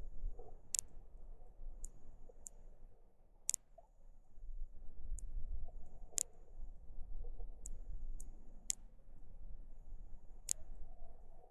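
River water heard underwater through a submerged camera: scattered sharp clicks, roughly one a second at irregular spacing, over a low muffled rumble.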